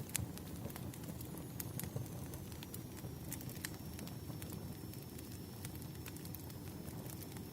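Wood campfire crackling: scattered sharp pops and snaps, irregular and a few each second, over a low steady rumble of burning flames.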